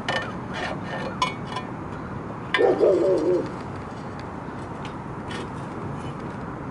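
A bird calling: one short, wavering, coo-like call about two and a half seconds in. Before it come several light clicks and knocks, over a steady background hum.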